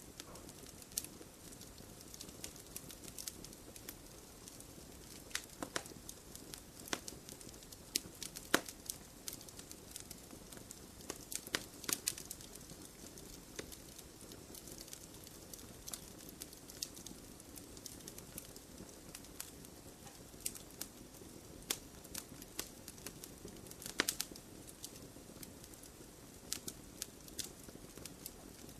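Wood campfire burning in a stone fire pit, with a low steady hiss under irregular sharp crackles and pops, a few louder snaps standing out.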